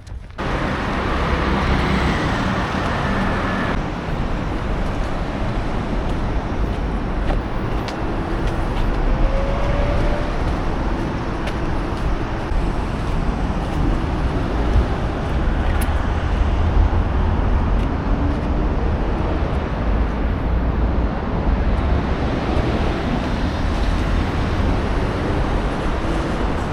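Steady road traffic noise: a continuous low rumble of passing motor vehicles.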